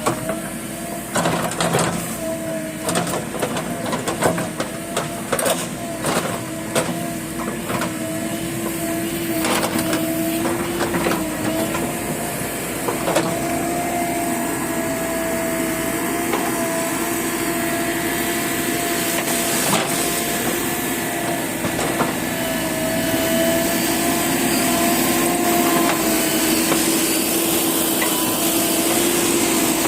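JCB backhoe loader running with a steady whining tone, with a string of sharp knocks and clanks through roughly the first dozen seconds.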